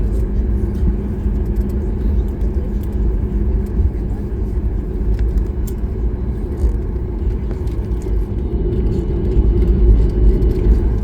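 Steady low rumble inside the cabin of a Boeing 737 MAX 8 taxiing after landing, with a faint steady hum under it.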